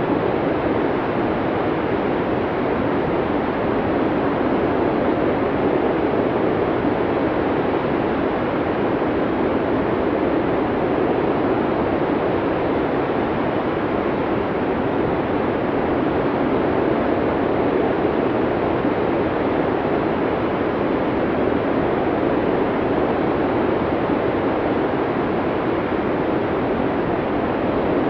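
Blizzard wind blowing as a steady rushing noise that only gently rises and falls.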